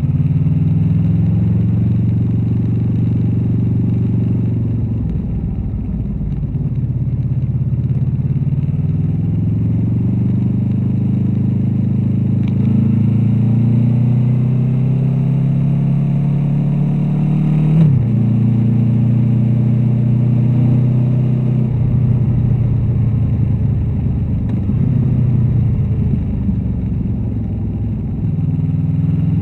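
Honda VFR800's V4 engine and exhaust under way, the pitch climbing as it accelerates and sinking as it eases off and slows, several times over. Just past the middle a long rise ends in a sudden drop in pitch, as at a gear change.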